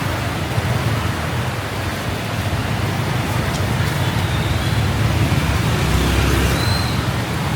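Riding a motorbike through heavy rain: a steady hiss of rain and wet road over the low hum of the engine and traffic, with a stronger low rumble about six seconds in.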